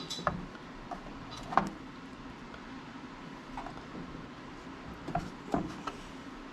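A kitchen knife cutting a block of sharp cheddar into small chunks, its blade knocking irregularly on the cutting board: one sharper knock about a second and a half in and a few more near the end, over a steady low hum.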